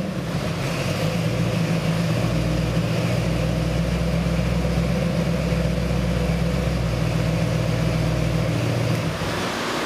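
5.8 L 351 Windsor small-block Ford V8 crate engine idling steadily on an engine dyno after a completed power pull.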